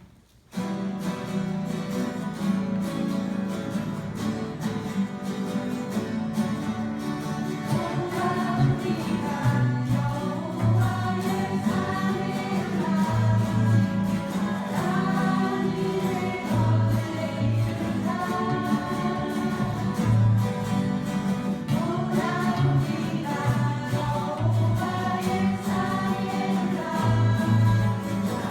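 A guitar ensemble plays a gospel worship song, starting about half a second in, and a group of voices joins in singing from about eight seconds in.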